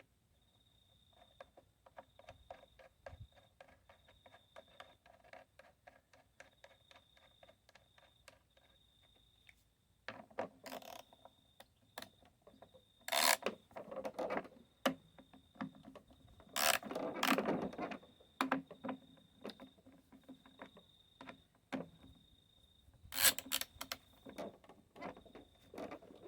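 Socket ratchet clicking in quick runs as the bolts holding a lawn mower's recoil starter to the engine are tightened, then louder irregular ratcheting, scraping and knocks of tool handling from about ten seconds in.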